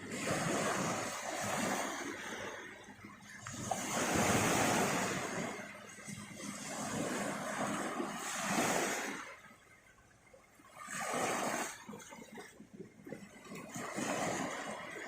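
Sea waves washing onto the beach, the surf swelling and falling back every few seconds.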